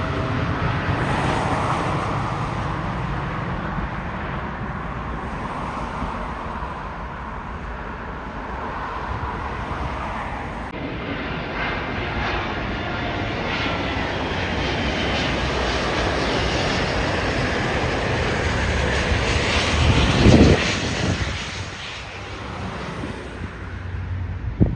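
Jet airliner engines running, a steady roar with faint whines that slowly shift in pitch as the aircraft passes. A brief louder bump comes about twenty seconds in, then the sound falls away.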